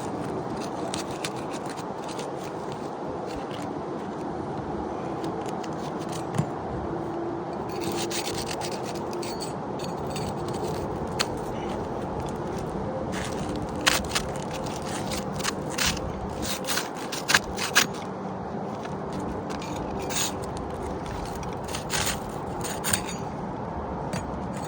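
Asphalt shingles being worked loose with a roof snake shingle tool: scraping and rubbing, with sharp clicks and snaps in the second half, over a steady background hum.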